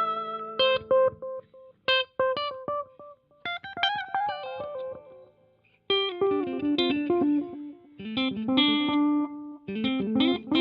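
Electric guitar played through a Donner Yellow Fall II delay pedal with the delay level turned all the way up, each phrase of notes followed by its echoed repeats. Short phrases come in bursts with pauses between them, and one brief near-silent gap about midway.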